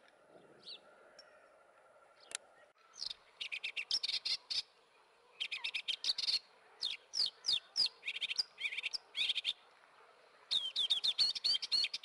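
A bird calling in quick runs of high, thin notes that slur downward, several runs in a row starting about three seconds in after a near-quiet start.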